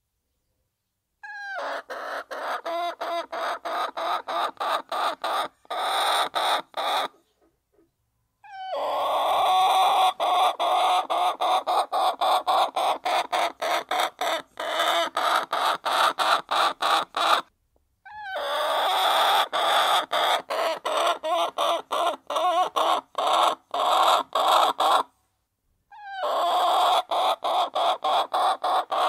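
A flock of hens clucking and murmuring as they eat, over a rapid run of sharp taps. The sound drops out to silence for about a second three times.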